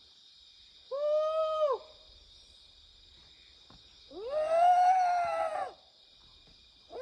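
An animal calling twice: long, wailing calls that each rise and then fall away in pitch, the second longer than the first, over a steady high-pitched drone.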